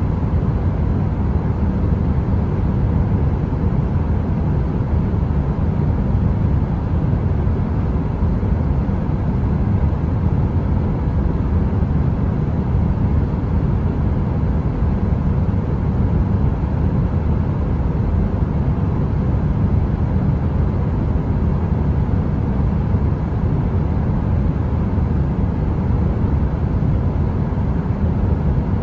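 Steady, deep, rumbling noise of a heater's fan running, with a faint steady hum; unchanging, with no crackle or pops.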